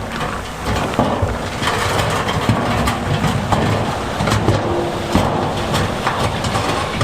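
Heavy diesel earthmoving machine running hard while large stones clatter and grind, with many short knocks over a steady low engine note.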